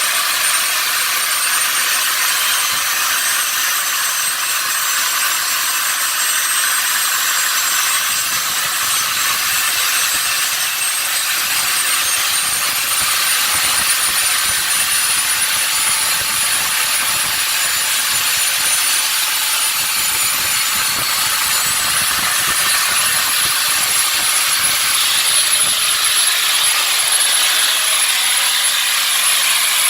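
Home-made gas turbine engine running: a loud, steady rushing noise with a high-pitched whine that slowly rises in pitch as the turbine speeds up.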